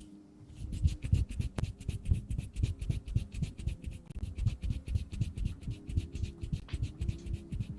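Hands and fingers fluttering and brushing right against the microphone: a fast, steady run of light clicks and scratches over soft low thuds.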